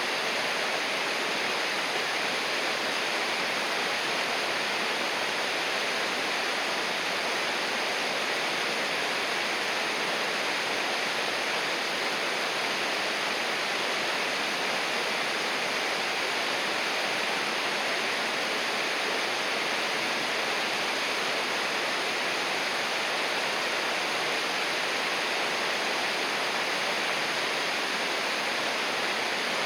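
A river flowing: a steady, unbroken rush of water with no change in level.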